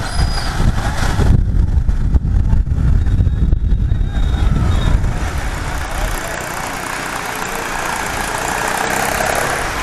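Bajaj Pulsar 150 motorcycle riding, its single-cylinder engine under a heavy low rumble of wind on the microphone. After about six seconds the rumble drops away, leaving an even street and traffic noise.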